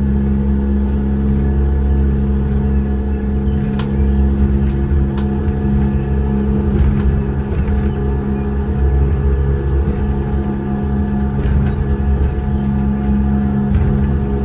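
A large engine running steadily at constant speed, a loud even drone with a low hum, with a couple of faint clicks about four and five seconds in.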